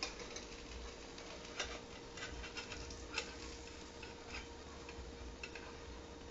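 Scattered light clicks and ticks from a crepe cooking in a buttered pan, irregular, with two sharper ones near the middle, over a faint steady hum.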